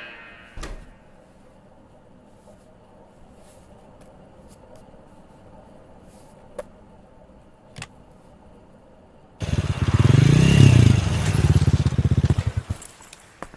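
A motor vehicle engine, loud and rapidly pulsing, cuts in suddenly about nine seconds in and lasts about three seconds, after a long quiet stretch broken by a few faint clicks.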